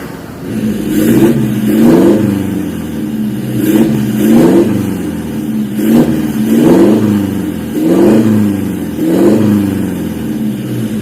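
Toyota Innova Reborn engine revved through an aftermarket valved stainless full-system exhaust, with about eight quick rev blips, each rising and falling back.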